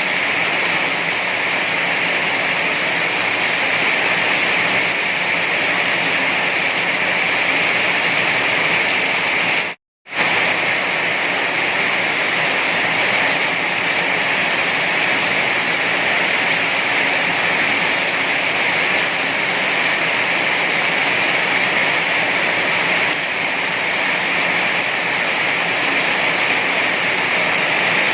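Heavy rain falling in a steady, dense hiss. It cuts out to silence for a split second about ten seconds in, then carries on unchanged.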